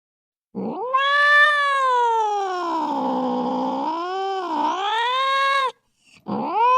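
A cat's long drawn-out yowl, rising and then sagging and wavering in pitch, which cuts off suddenly; a second yowl starts near the end.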